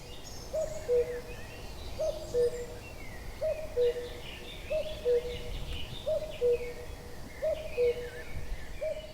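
Common cuckoo calling its two-note cu-coo about seven times, evenly spaced, the second note lower than the first, with other small birds twittering behind it.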